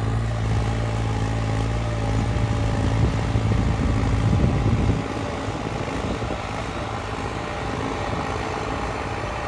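Diesel tractor engine running steadily under load while pulling a disc harrow, a low drone with a steady hum. About five seconds in the deep rumble suddenly drops and the engine sound becomes quieter.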